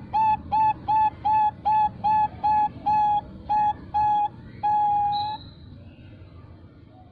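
Female Bangkok perkutut (zebra dove) calling: a quick series of short, clear coos, about three a second, ending about five seconds in on one long drawn-out note, the prized long ending.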